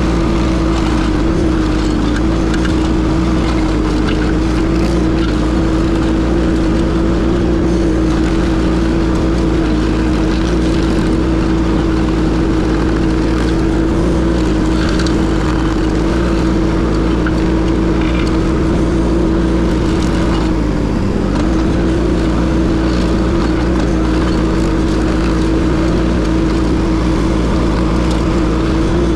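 Case TL100 mini skid steer's engine running steadily at high throttle, driving a Toro stump grinder attachment, with a steady hum and a brief dip in pitch about three quarters of the way through.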